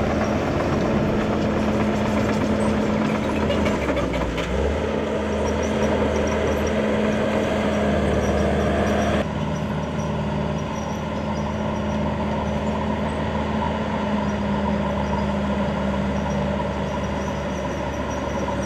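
An engine running steadily at a constant pitch, with an abrupt change in level about nine seconds in.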